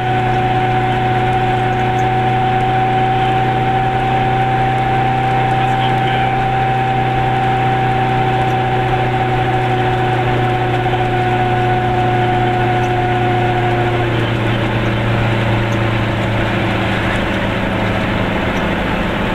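Goggomobil's small two-stroke twin-cylinder engine running steadily while the car drives along, a constant engine drone with a buzzy overtone. About fourteen seconds in its note changes, the higher tone dropping away and a lower one taking over.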